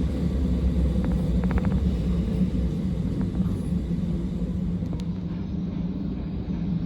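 Abukuma Express 8100 series electric train running, heard from inside the car: a steady low rumble with a hum, and a quick cluster of light clicks about a second and a half in.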